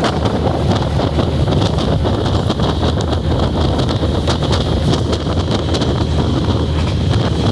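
Ordinary passenger train running: a steady low rumble with frequent short rattles and clicks, and wind buffeting the microphone.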